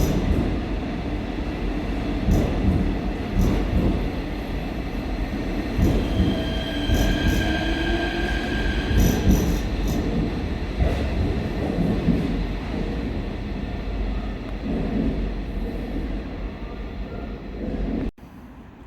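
Seoul Subway Line 4 electric train running at the platform: a steady rumble with clicks from the wheels over rail joints and a squeal of wheels on rail in the middle. The sound cuts off suddenly near the end.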